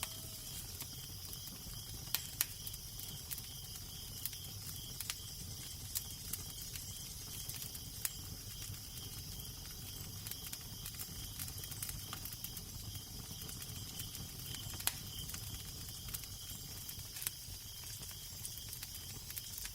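Crackling fire with irregular sharp pops over a steady low wind rumble and hiss.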